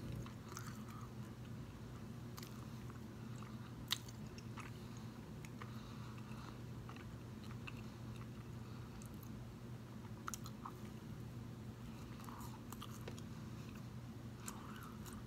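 Close-miked biting and chewing of buttered raisin toast, faint, with scattered sharp mouth clicks and small crunches over a steady low hum.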